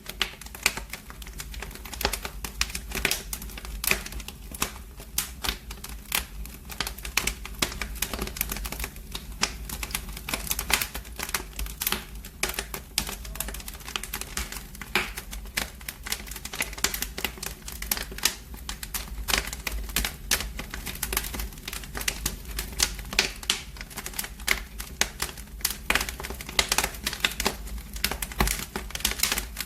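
Fire burning in a fireplace, crackling and popping with dense, irregular snaps over a low steady rumble.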